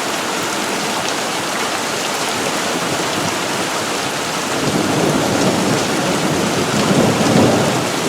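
Heavy monsoon rain pouring down steadily. About halfway through, a low rumble of thunder rolls in and grows louder toward the end, following a lightning flash.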